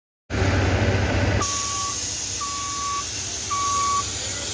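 Hybrid transit bus with a low engine rumble. About a second and a half in, a steady hiss of air starts, and a single-pitch warning beep repeats about once a second over it.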